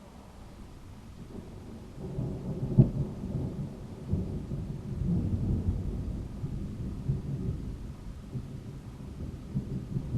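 Thunder: a low rumble starts about two seconds in, with a sharp crack just after it, then keeps rolling unevenly to the end.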